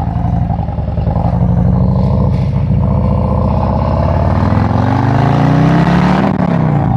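Harley-Davidson V-twin motorcycle engine under acceleration. Its pitch climbs steadily, then drops sharply about six seconds in as it shifts up a gear.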